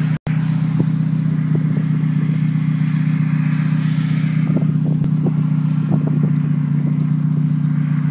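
Mazda 323 engine running steadily and loudly with no mufflers on the exhaust, a raw unsilenced exhaust note at an even pitch, with a few light ticks over it.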